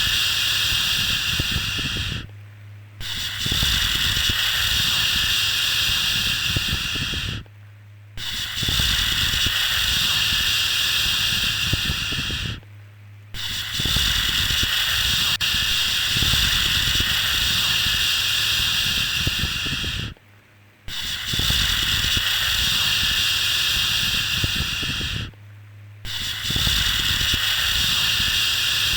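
A long, steady 'shhh' shushing sound for soothing a baby to sleep, held for about five seconds at a time with short breaths of pause between. There is a faint low hum underneath.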